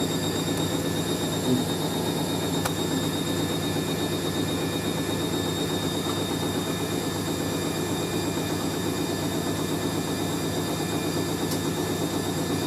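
Hoover A3060 Electronic 1100 washing machine spinning a heavy sofa throw: a steady motor whine and drum rumble, with the characteristic sound of its shock absorbers.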